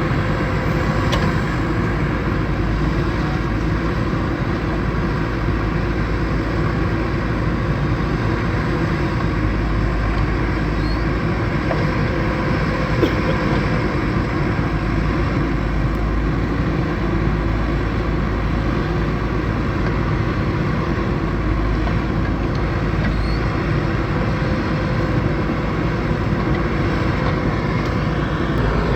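Diesel engine of a working backhoe loader running steadily.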